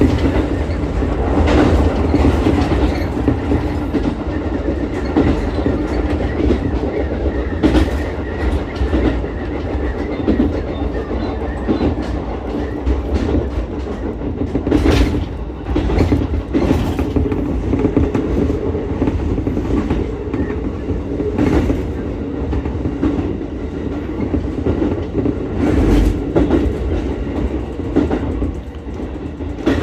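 Ichibata Electric Railway 7000-series electric railcar running along the track, heard from on board: a steady rolling rumble with a few sharp clacks as the wheels cross rail joints.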